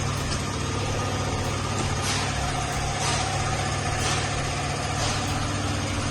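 A vehicle engine idling steadily, with faint light ticks about once a second.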